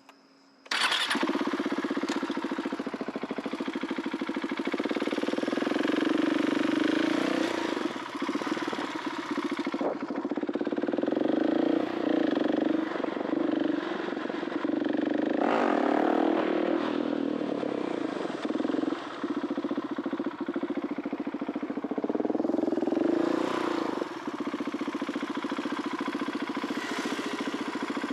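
KTM 690 SMC R's 693cc single-cylinder four-stroke engine, fitted with an Arrow Race-Tech titanium exhaust, starting up suddenly about a second in, then running with the revs rising and falling.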